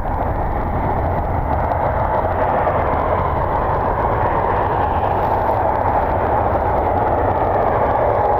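Steady rushing noise of a jet airliner's engines, slowly growing louder towards the end.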